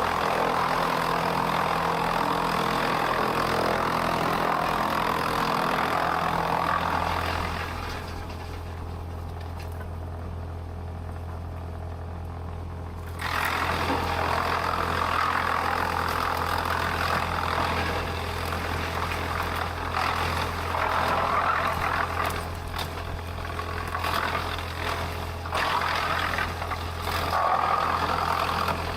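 Sawmill machinery running with a steady low engine hum under a loud, noisy working sound. The working sound drops out for about five seconds midway and then starts again, with scattered clicks and knocks.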